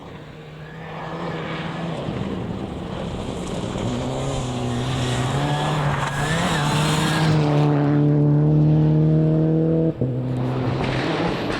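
Rally car engine at full effort as the car comes up a stage, growing steadily louder and loudest a couple of seconds before the end. Its note rises and dips with the throttle and breaks for an instant near the end, as at a gear change.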